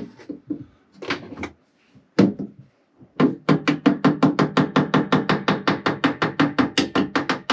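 Heat-softened PVC pipe being knocked into the broken vent fitting of a boat's holding tank. A few separate knocks come in the first two seconds, then from about three seconds in a fast, even run of knocks, about seven a second.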